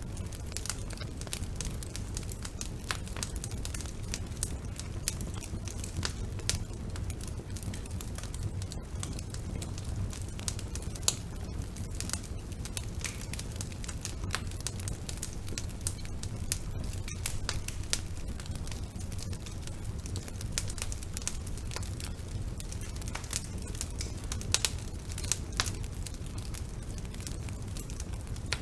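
Wood burning in a fireplace, crackling: frequent sharp, irregular snaps over a steady low rumble of the flames, with a few louder pops scattered through.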